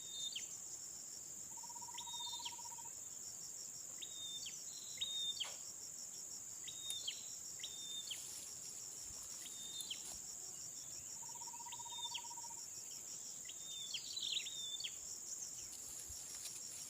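Steady high-pitched insect chorus of crickets or cicadas, over which a bird repeats short calls that drop sharply in pitch, often in pairs, every second or two. Twice a short, lower trill lasting about a second is heard.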